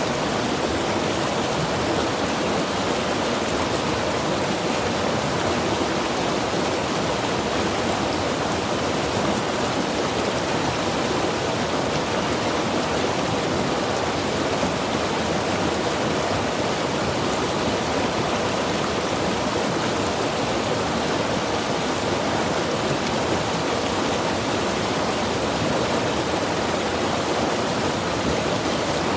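Mountain river rushing over rocks: a steady, unbroken wash of flowing water.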